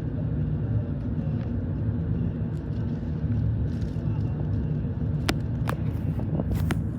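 Car being driven: a steady low engine and road rumble, with a few sharp clicks near the end.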